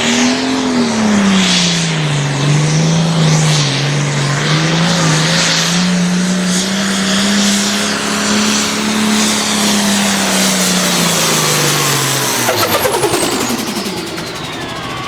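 Altered farm pulling tractor's engine running hard under load down the track, its pitch rising and dipping. About twelve seconds in the engine is cut and its pitch falls away quickly, with a high whine winding down.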